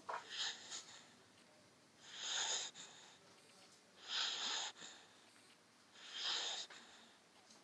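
A sleeping dog snoring: four hissy, breathy snores in a slow even rhythm, about one every two seconds.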